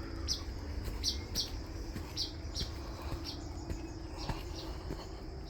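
A bird chirping: short, high chirps repeated roughly every half second to second, often in pairs, over a faint steady insect whine and a low rumble.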